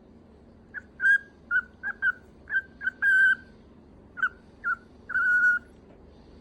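Cockatiel whistling a phrase of about ten short, clear whistled notes, with two longer held notes in the middle and near the end.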